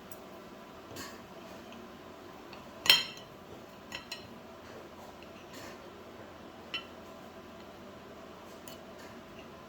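Kitchen utensils clinking against dishes: a handful of separate clinks. The loudest, about three seconds in, rings briefly, and a quick pair follows about a second later.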